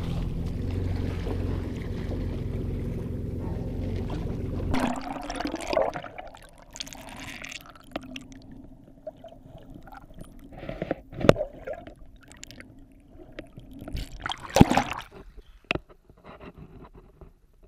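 Jet boat engine running steadily with rushing water, stopping abruptly about five seconds in; after that, quieter water lapping and sloshing with a few sharp knocks or splashes.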